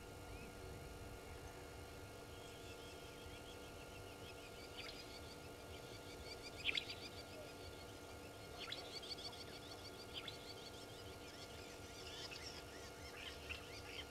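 Birds calling: scattered high chirps and trills, with several sharp down-slurred calls, the loudest a little before halfway through, over a faint steady hum.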